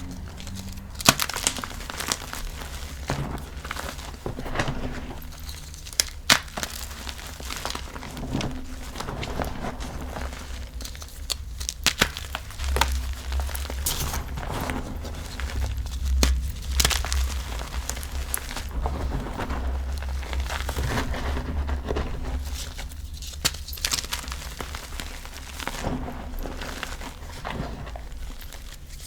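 Blocks of gym chalk being crushed and crumbled by hand, with crisp crunches and sharp snaps at irregular intervals over a faint low rumble.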